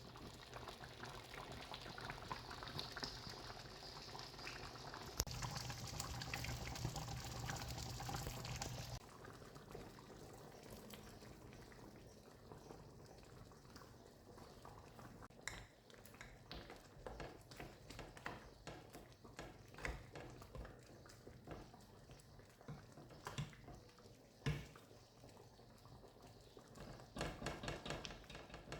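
Kitchen liquid sounds: a steady rush of running or poured liquid for about nine seconds that stops abruptly, then scattered soft pops and clicks.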